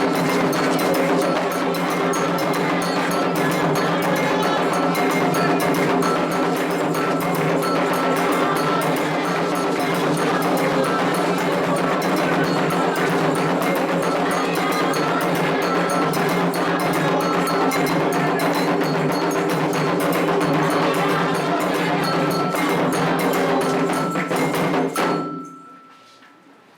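Candomblé ritual percussion: atabaque hand drums played in a fast, dense rhythm with an iron agogô bell struck over and over. The playing stops abruptly about 25 seconds in.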